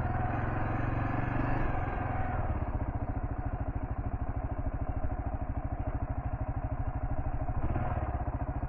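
Kawasaki KLR650's single-cylinder engine running at low, fairly steady revs, with an even rapid pulsing.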